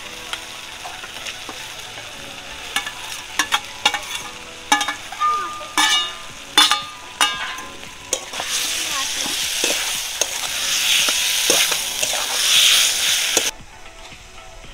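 Fried chicken pieces sizzling in a hot kadai with onions, capsicum and sauces, while a steel spatula clanks and scrapes against the pan as they are stirred in. The sizzle grows louder in the second half, then cuts off suddenly near the end.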